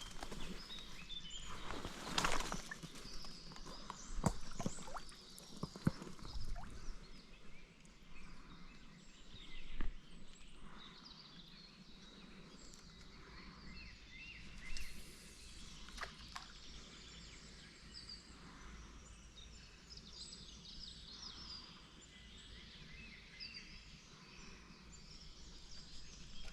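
Outdoor ambience with birds chirping faintly throughout, and a few sharp clicks and knocks in the first several seconds.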